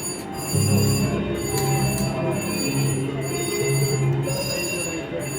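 Turquoise Treasure slot machine playing its game music, with ringing chime tones over a low pulsing beat.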